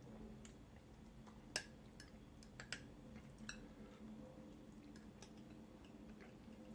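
Near silence broken by a few faint clicks and quiet chewing as a bowl of ramen noodles is eaten, the loudest click about one and a half seconds in.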